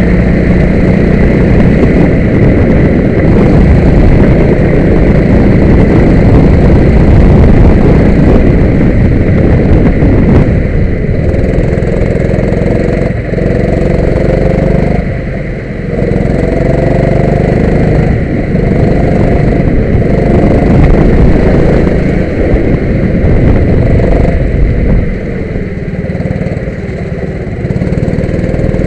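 Go-kart engine running hard and loud. From about a third of the way in, its note drops and climbs again several times as the kart lifts off and accelerates.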